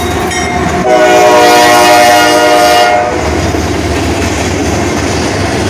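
A passing CSX freight train's locomotive sounds one long blast on its air horn, about two seconds long and starting about a second in, over the steady rumble and clatter of the train on the rails.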